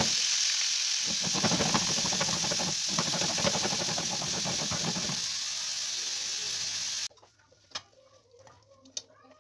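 Meatballs with chopped peppers and onions sizzling loudly in a frying pan while being stirred and tossed, with a rapid clatter of the food and utensil in the pan. The sizzle cuts off abruptly about seven seconds in, leaving quiet broken by two sharp clicks.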